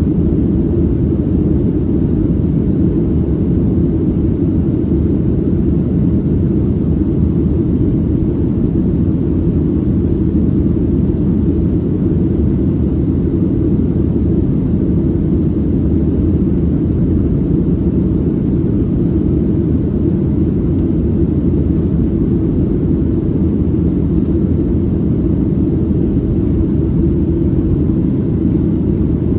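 Steady low drone of a Boeing 737-700's CFM56-7B jet engines and rushing air, constant and unchanging throughout.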